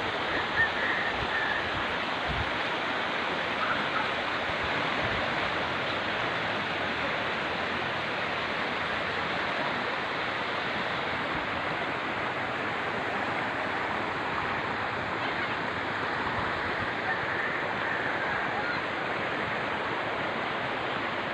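Floodwater flowing steadily, a constant even rush of moving water.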